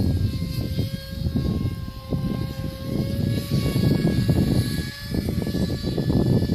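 Electric motor and propeller of an RC model Icon A5 seaplane in flight, a thin steady whine that drifts slightly in pitch, over a louder, uneven low rumble.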